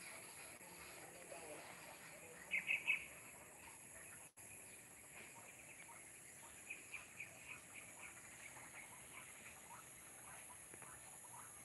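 Birds chirping: a quick burst of three or four loud chirps about two and a half seconds in, then a run of softer chirps later on, over a steady high-pitched background hiss.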